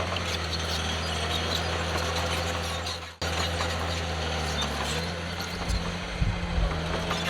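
Heavy diesel earthmoving machinery engine running steadily, with a brief dropout about three seconds in. Irregular low thumps and rumbles join in over the last couple of seconds.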